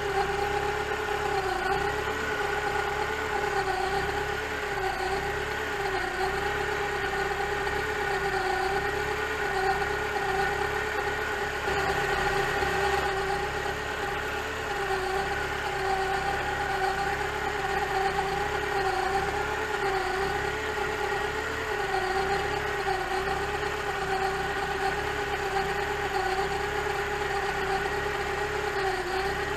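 Mitsubishi Evo 9's rebuilt 2.4 L long-rod engine idling steadily with a whine that wavers slightly in pitch, the timing belt noise that has appeared after the rebuild.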